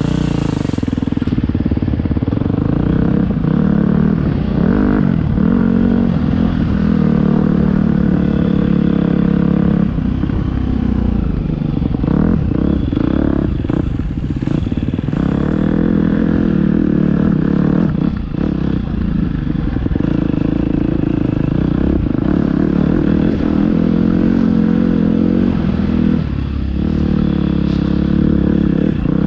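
Motocross dirt bike engine revving up and falling back repeatedly as it is ridden, with clattering knocks here and there.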